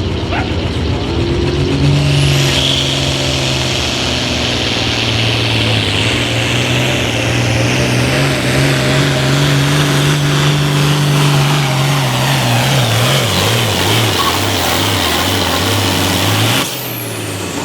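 Turbocharged altered farm pulling tractor's engine running hard under load on a pull. Its note rises about two seconds in and holds steady, then drops and wavers in pitch over the last few seconds before cutting off abruptly near the end.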